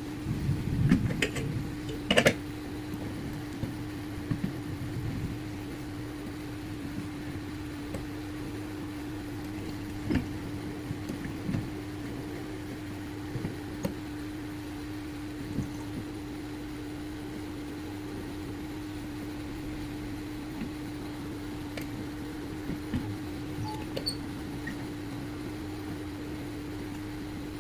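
A small machine motor hums steadily while spring wire is worked, with scattered metal clicks and knocks. The loudest knocks come about one and two seconds in.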